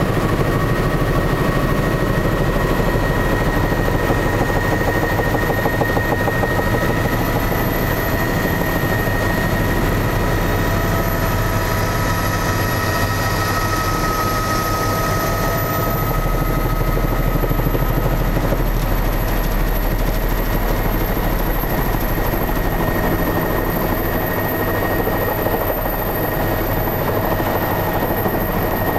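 Tour helicopter in flight, its rotor beating rapidly and its turbine engine running with a steady high whine, loud and unbroken throughout.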